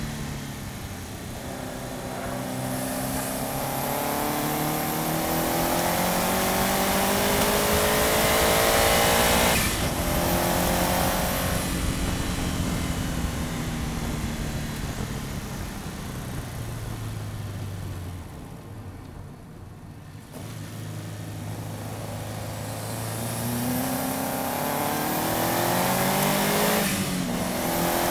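Subaru Impreza's flat-four engine accelerating hard, its note rising to an upshift about a third of the way in, then winding down off the throttle and dropping briefly before climbing again to another upshift near the end. Heard through a bumper-mounted camera, with steady road and wind noise underneath.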